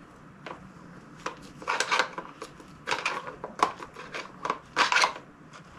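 Large flathead screwdriver working in the notch of a wide stock retainer nut, giving irregular metal clicks and short scrapes as the blade slips and catches; the nut is stuck and won't back out.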